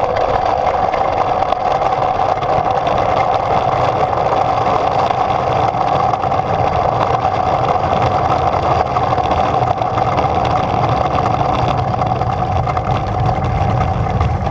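Steady whirring hum over a rushing noise, unbroken throughout, heard from on board a human-powered aircraft in flight with its propeller turning.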